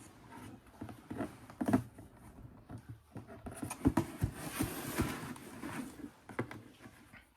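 Irregular light pattering and soft knocks with scuffing, thickening into a stretch of rustling about halfway through, then falling quiet at the very end.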